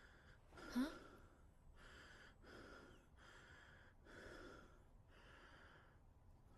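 Faint, rhythmic breathing of a person, about one breath a second, with a short, louder gasp just under a second in.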